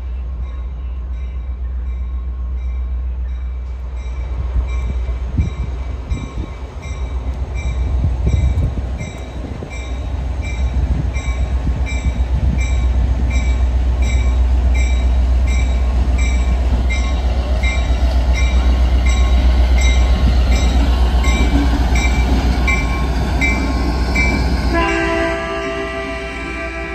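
Diesel locomotives rumbling by at slow speed, growing louder as they pass, with a locomotive bell ringing steadily about once a second. About 25 seconds in, a multi-note train horn starts sounding and holds to the end.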